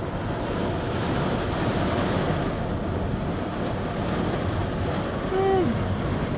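Thunderstorm downpour: heavy rain and gusting wind making a steady rushing noise.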